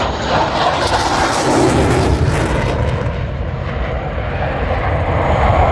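Jet engine noise from a Blue Angels F/A-18 Super Hornet flying past: a loud, continuous roar. A hissing edge swells about a second in and eases after about three seconds.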